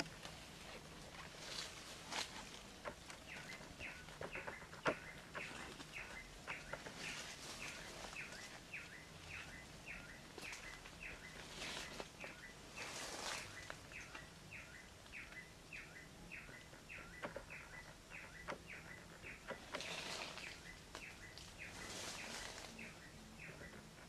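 A bird chirping in a fast, even series of short falling chirps, about three a second, with brief bursts of rustling in dry leaves now and then as a trapped greater coucal shifts and flaps its wings.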